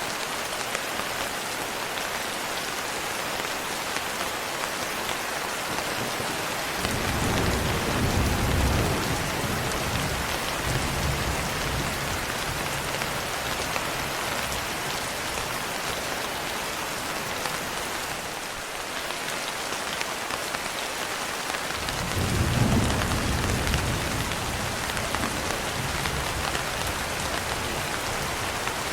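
Steady rain with two rolls of thunder, one starting about a quarter of the way in and one about three quarters in, each a low rumble lasting several seconds.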